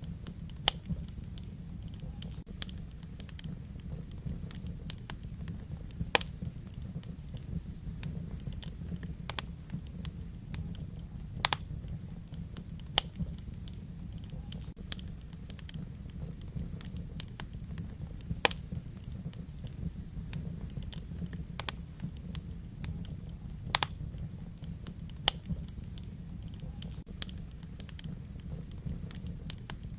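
Wood fire burning in a fireplace: a steady low rumble with irregular sharp crackles and pops, a few much louder than the rest.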